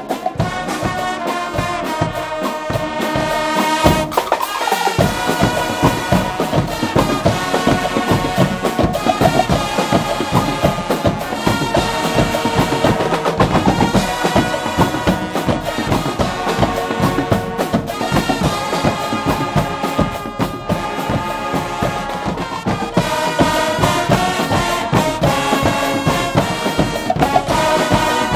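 Guggenmusik band playing live: loud, brassy trumpets and trombones over a steady drum beat. Low bass and drums come in fully about five seconds in.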